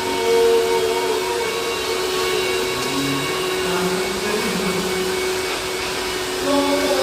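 Vacuum cleaner running steadily with a constant motor hum, cleaning the cloth of a billiard table.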